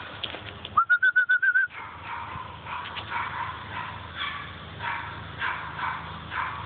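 A bird's rapid trill, about nine quick, clear notes in under a second, about a second in and the loudest sound here. Behind it, chirping repeats about every half second.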